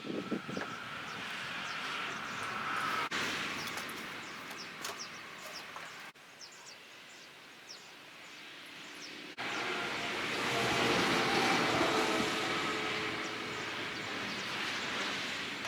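Outdoor background noise: a steady rush that jumps abruptly in level at a few points, with short high chirps scattered through it.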